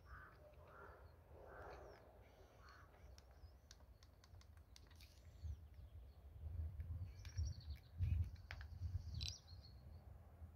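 Faint outdoor ambience. Birds call: a run of four short calls in the first two seconds, then higher chirps in the second half. Low, irregular rumbles swell in the second half and are the loudest sound.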